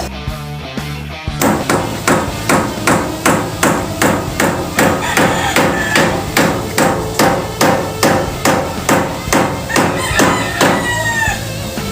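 Hammer driving nails with steady, evenly spaced blows, about three a second, starting about a second in.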